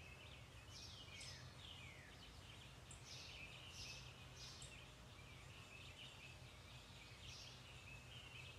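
Faint birds chirping, with scattered short calls and a few quick downward-sliding calls over a low steady hum.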